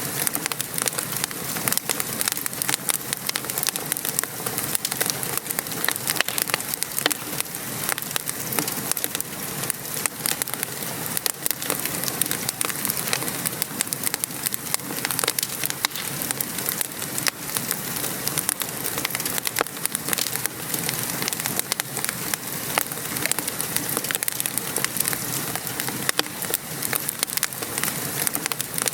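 Steady rain falling, mixed with a wood fire crackling and popping in a fireplace. The patter and the many small crackles run on evenly.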